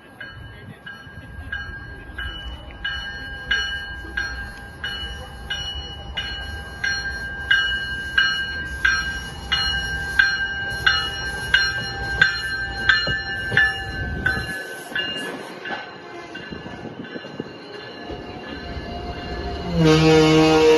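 A train passing with a low rumble, while a bell rings over and over, about one strike every 0.7 seconds. The rumble and bell die away about two-thirds of the way through. Just before the end, a train's air horn sounds a loud, steady chord.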